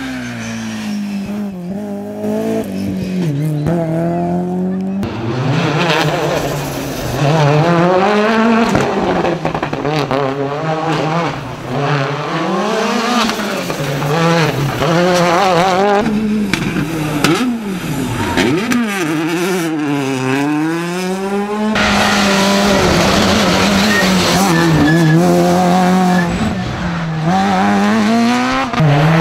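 Rally car engines revving hard, pitch rising and falling through gear changes and braking as cars drive a stage, with tyres squealing; the sound changes abruptly twice as one car's pass gives way to another's.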